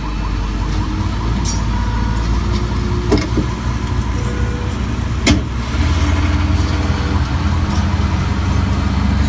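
Tour tram's engine running with a steady low rumble that grows louder about six seconds in, with two sharp clicks in between.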